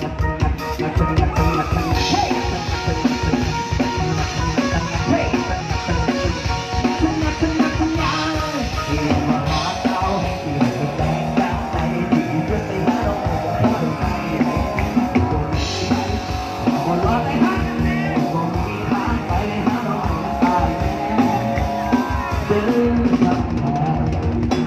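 Live band playing a rock-style number with a driving drum kit beat. Bright crashes come through a few times, and the band plays on without a break.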